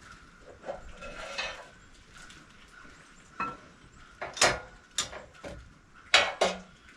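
A series of sharp knocks and clatters, about five in all, mostly in the second half; the loudest come a little after the middle and near the end.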